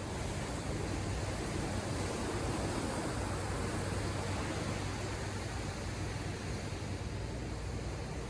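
Ocean waves washing onto the shore in a steady wash of surf, swelling a little about two to four seconds in.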